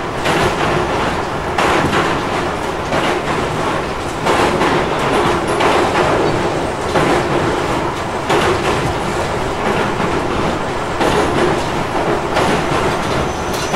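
Running noise inside a Tobu 50050-series electric train's motor car at speed: a steady rumble of wheels on rail with a clack over the track joints every second or so, and the car's air conditioning running.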